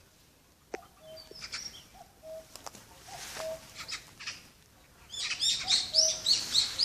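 Birds calling: a low two-part call, a short note then a held one, repeats about once a second. From about five seconds in, a loud burst of quick, high, rapidly repeated chirps comes in over it.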